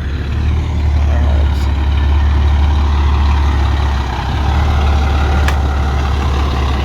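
Big-rig semi truck's diesel engine running close by, a deep steady rumble.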